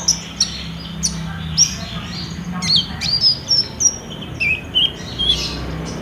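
Kolibri ninja sunbird song: a quick, busy series of high, sharp chirps and short falling whistles, with a faint low hum underneath.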